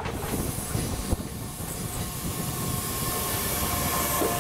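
A regional electric multiple unit passing close by, its wheels running on the track with a noise that grows louder. A steady whine joins about halfway through, and two short clicks come near the end.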